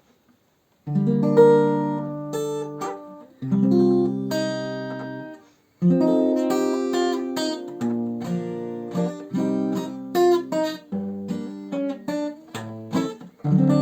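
Acoustic guitar playing the introduction to a song, starting about a second in: ringing chords strummed with short breaks between them, then a busier run of picked notes and chords.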